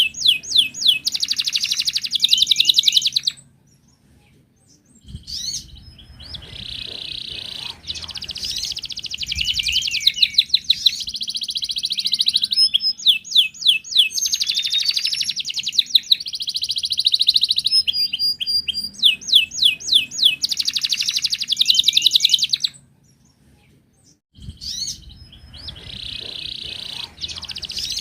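Wild canary singing long phrases of rapid, rolling trills and sharp chirps, with two short pauses in the song.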